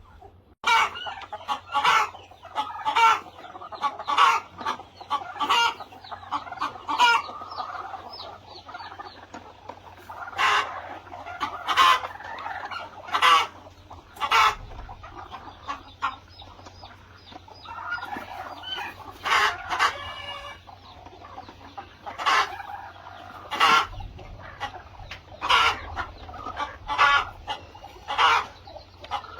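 Flock of chickens clucking, with many short, sharp calls throughout.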